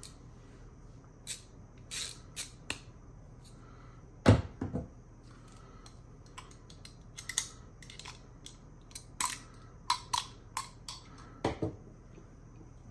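Hands handling PC parts and packaging: scattered sharp clicks, taps and short rustles, with a heavier thud about four seconds in and another near the end.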